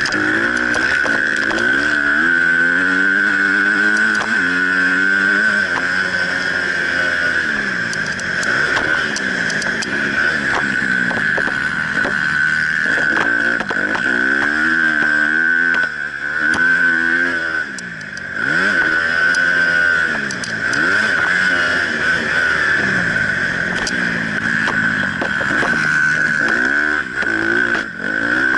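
Honda CRF250 single-cylinder four-stroke dirt bike engine revving up and down over and over as the throttle is opened and shut, dropping off briefly about halfway through. A steady high whine sits under the engine throughout.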